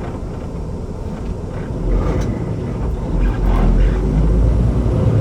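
Semi-truck being driven: steady engine and road rumble that grows louder about two seconds in.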